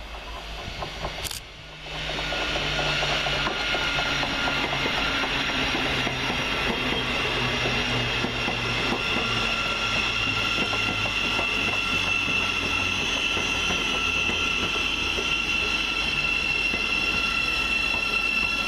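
Electric passenger train running past at speed: a steady rail rumble with a constant high whine on top, starting about two seconds in.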